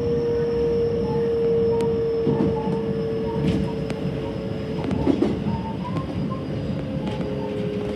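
Electric train running at speed, heard from inside the driver's cab: a steady rumble of wheels on rail with a held whine and a few sharp clicks from the track.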